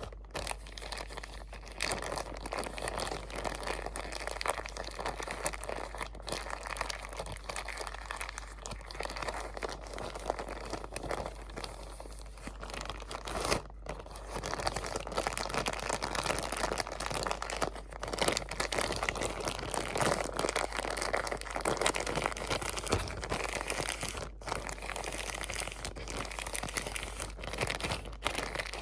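Close-up crinkling of crinkly material handled continuously, a dense crackle with brief pauses about fourteen and twenty-four seconds in.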